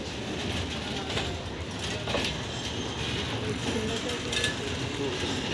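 Steady low mechanical rumble with scattered metallic clanks, about one every second.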